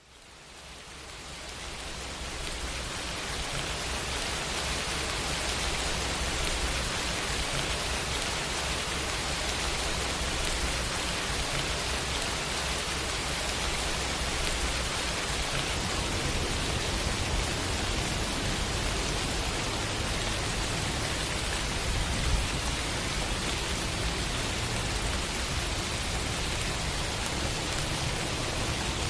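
Steady rain hiss, fading in from silence over the first few seconds and then holding even.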